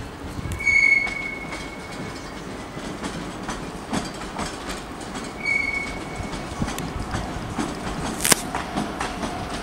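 Passenger train wagons rolling past on the rails, clicking over joints, with two short high-pitched wheel squeals, one near the start and one about five seconds in, and a sharp clank a little after eight seconds.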